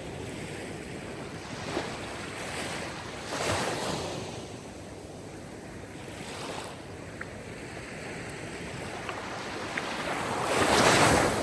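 Sea waves breaking on a shore, a steady wash of surf with several swells, the largest building and breaking near the end.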